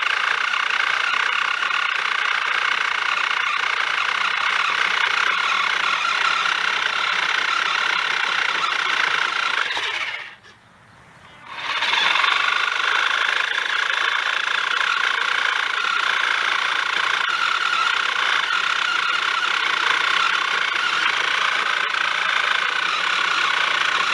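Battery-powered Ryobi 40-volt trimmer driving a 10-inch pole saw chain through an ash branch: a steady high whine that stops for about a second around ten seconds in, then starts again.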